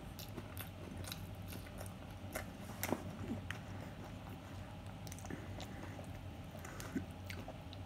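A person chewing a mouthful of chicken nachos with soggy tortilla chips: soft, wet chewing and mouth clicks, the sharpest about three seconds in.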